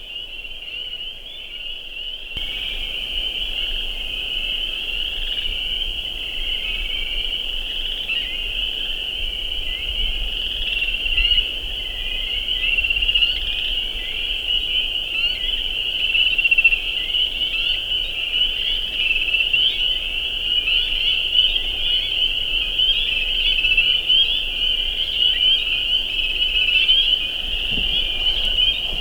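A dense chorus of spring peepers: many frogs giving short, high, upslurred peeps that overlap into one continuous shrill ringing. A faint low rumble runs underneath from about two seconds in.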